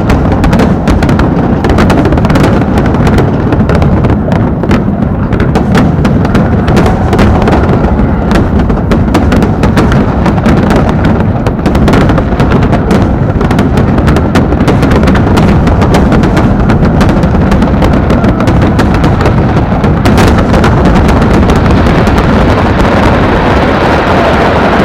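Aerial fireworks going off in a dense, rapid barrage: overlapping booms and sharp cracks over a continuous loud rumble. The sharp cracks thin out near the end while the rumble carries on.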